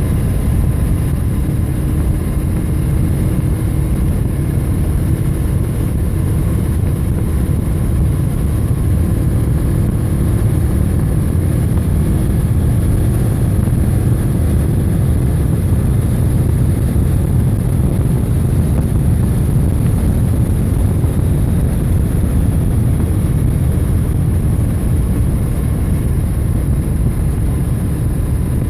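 Motorcycle ridden at a steady road speed: a continuous low engine drone mixed with heavy wind rush on the microphone.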